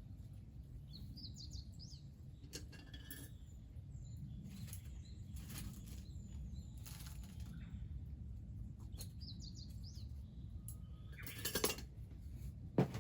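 A small bird singing a short high phrase twice, over a steady low rumble of outdoor noise. Scattered clicks and knocks run through, with a louder clatter near the end.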